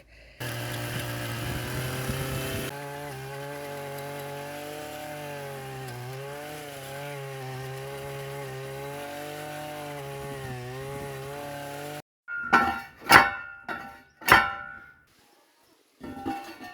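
Petrol earth auger (post-hole borer) engine running under load as it drills a fence-post hole, its pitch dipping and wavering as the auger bites, then stopping abruptly. A few short, sharp sounds follow near the end.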